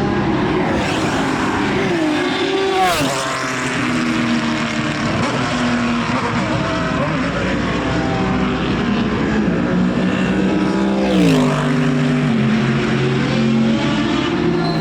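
Racing car engines running hard at a circuit. The pitch falls in steps as a car downshifts under braking, once a few seconds in and again about two thirds of the way through.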